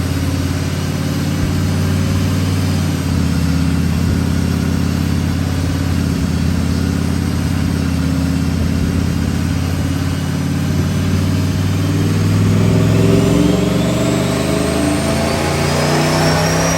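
Turbocharged V8 of a Chevrolet Silverado running on a dyno, steady at first; about two-thirds of the way in the engine note climbs, and a high whine rises with it and levels off near the end.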